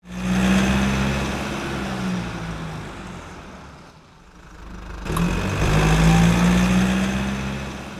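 Car engine sound in two loud swells, one at the start and one about five seconds in, each dying away over two to three seconds.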